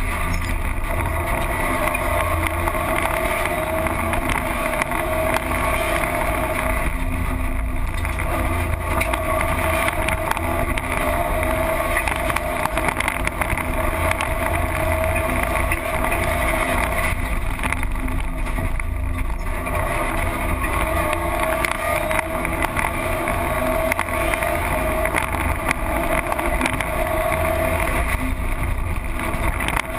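Rally car engine running hard at high revs, heard from inside the cockpit with road and wind noise; the engine note drops briefly about three times, around a quarter, two-thirds and near the end, as the throttle is lifted.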